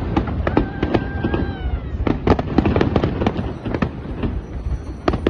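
Fireworks bursting in rapid, irregular succession: many sharp bangs over a continuous low rumble, with a faint whistle falling in pitch about a second in.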